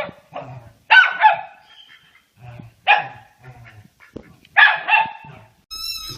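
A dog barking in short, high-pitched barks, in groups of one to three with pauses between. A brief thin, steady high tone sounds near the end.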